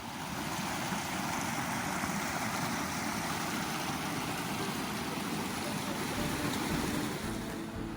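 Steady rush of running water, an even hiss with no pitch and no change in level.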